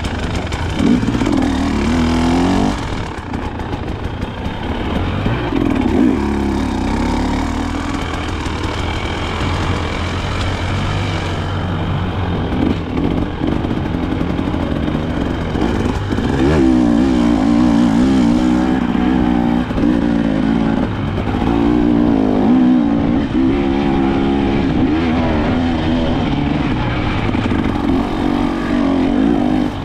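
KTM 300 XC-W single-cylinder two-stroke dirt bike engine being ridden, revving up and down over and over, with a steady low rumble underneath.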